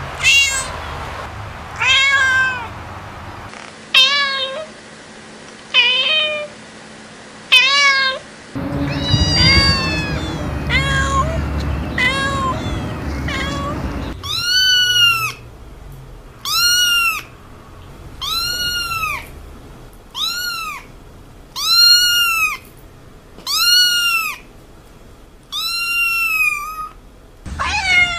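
Cats meowing one after another: a cat meowing about every two seconds, then more meows over a low rumble, then from about halfway a regular run of higher-pitched kitten meows about every second and a half.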